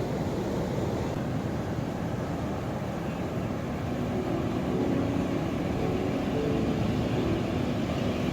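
Ocean surf: a steady, rumbling wash of waves. From about halfway, faint steady droning tones join it.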